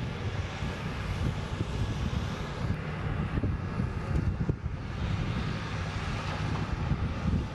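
Jet aircraft engine noise: a steady, rumbling rush that cuts off suddenly at the end.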